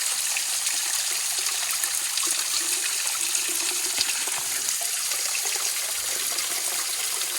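A small waterfall running low, with little water going over it, makes a steady trickling and splashing.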